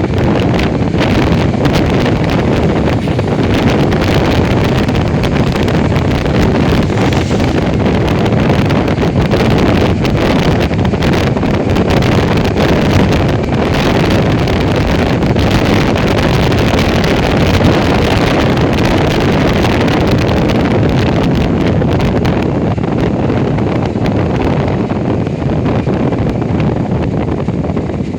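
Steady wind rush buffeting the microphone of a moving motorcycle, with the vehicle's running noise underneath.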